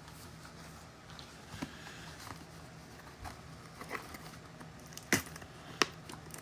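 Trading card boxes and packs being handled on a table: scattered light taps and clicks, with two sharper clicks about five seconds in, over a faint steady hum.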